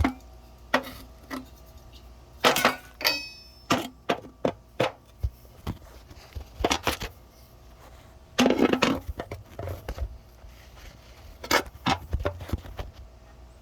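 Irregular knocks and clinks of hand tools and metal parts being handled while valves are fitted onto hydraulic cylinders, with one short ringing clink about three seconds in.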